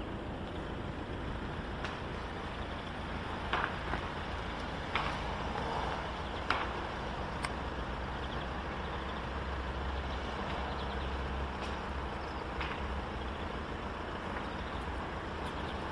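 Opel Omega 2.0 DTI four-cylinder turbodiesel engine running steadily, with a constant low hum and a few scattered clicks.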